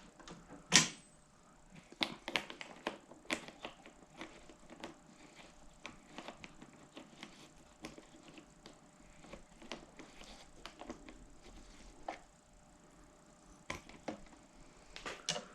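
Scattered clicks and light metallic clinks of hand tools and small parts being handled, with one sharper click about a second in, during reassembly of a push-mower carburetor.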